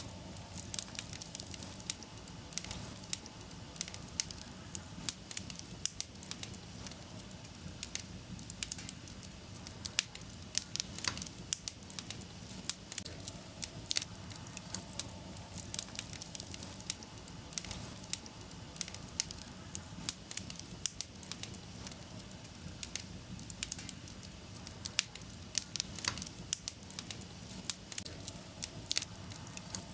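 Wood fire burning in a fireplace, crackling and popping irregularly over a steady low hiss of the flames.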